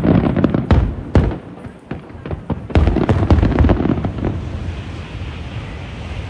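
Display fireworks bursting: a rapid series of bangs and crackles. A dense barrage comes about three seconds in, then fades to a rumbling wash.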